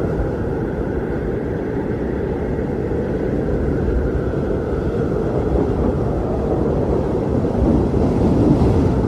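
Strong wind blowing in a steady low rush, swelling slightly near the end.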